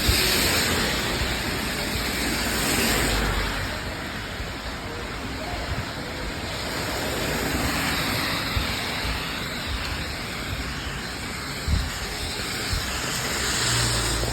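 Rain with traffic on a wet street: an even hiss that swells near the start and again near the end, as vehicles pass.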